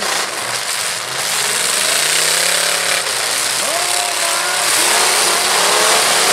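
Demolition derby trucks' engines revving, their pitch rising and falling, over a loud, dense noise, with a few knocks in the first second.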